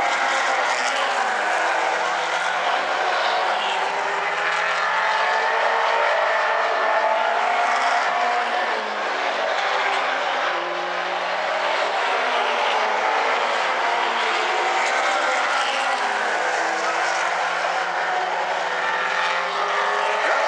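Several late model stock cars racing on an oval track, their engines running hard together in an overlapping drone whose pitch keeps rising and falling as the cars go around.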